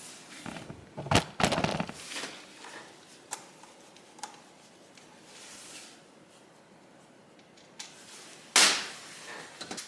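Sharp knocks and clatter of hand tools on engine parts while a small motorcycle engine is stripped. There is a quick flurry of knocks about a second in, a couple of light ticks after that, and one loud hit near the end.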